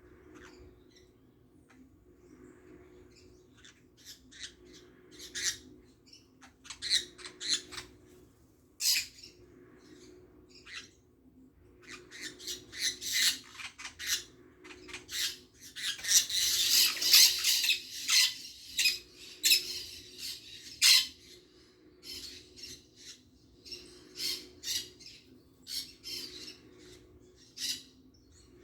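Birds calling: many short, sharp, high-pitched calls scattered irregularly, crowding into a busy flurry about halfway through. A faint steady low hum runs underneath.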